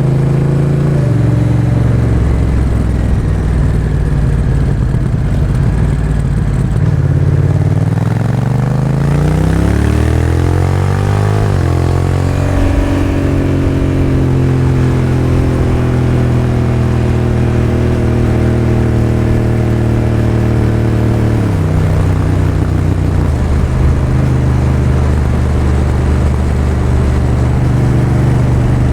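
Honda Rebel 1100's parallel-twin engine running through a Miller exhaust with the Racing db-Absorber baffle while the bike is ridden. The revs fall about a second in, climb in a long rise under acceleration, hold steady, then drop suddenly about two-thirds of the way through, as at a gear change, and run on steadily.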